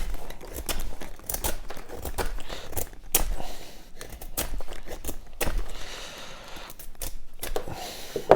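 Kindling being split off slightly damp firewood: a series of irregular sharp cracks and splintering tears as slivers of wood come away.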